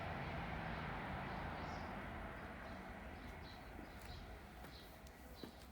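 Small birds chirping over a faint, even outdoor background noise that slowly fades.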